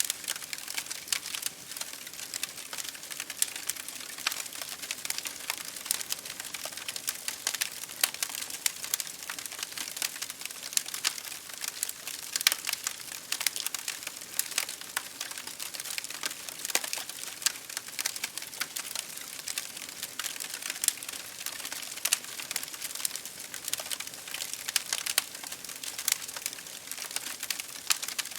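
Campfire burning with dense, irregular crackling and popping of wood over a steady hiss.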